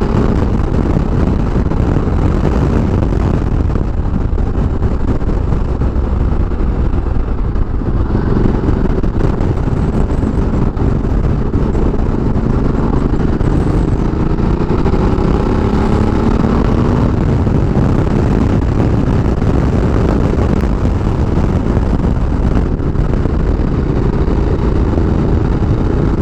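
Ducati Multistrada 1200S's L-twin engine running under way, its note rising and falling a few times, under steady wind rush on the microphone.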